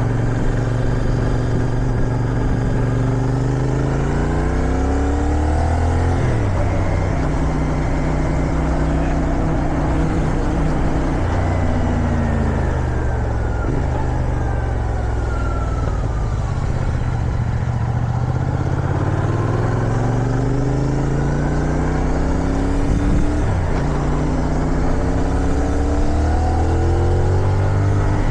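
CFMoto 450SR sport motorcycle engine pulling up through the gears, its pitch climbing and dropping sharply at each upshift, easing off and falling in the middle, then accelerating again. Steady wind rush on the helmet or bike microphone runs underneath.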